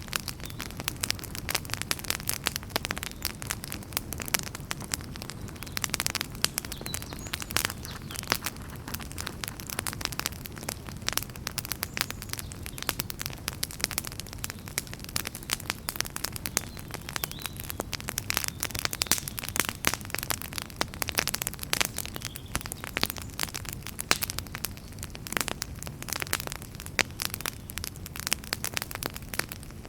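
Wood fire burning in a fireplace, crackling and popping in dense, irregular snaps over a low steady rumble of flame.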